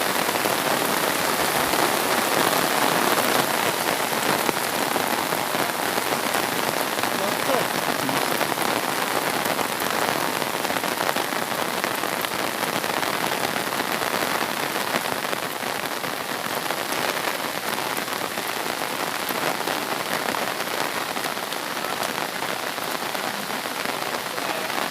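Steady rain falling, with many individual drops hitting close by.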